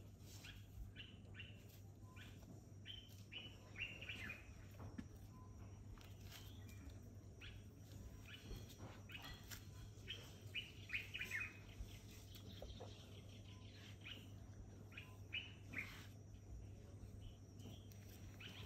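Faint birdsong: many short chirps and calls scattered throughout, over a steady low hum.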